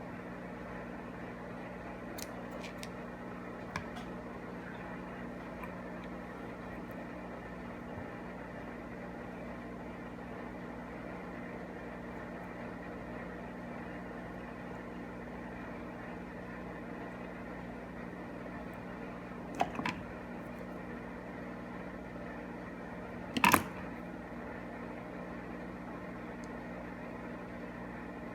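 Steady low mechanical hum from a running motor or fan, with a few light clicks and two sharper clicks, one about 20 seconds in and one about 23 seconds in.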